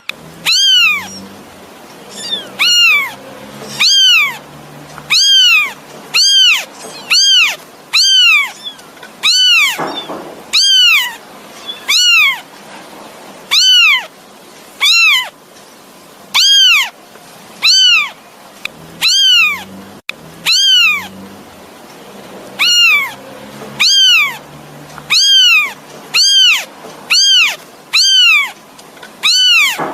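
Kitten meowing over and over, calling for its mother: loud, high cries that rise then fall in pitch, about one a second.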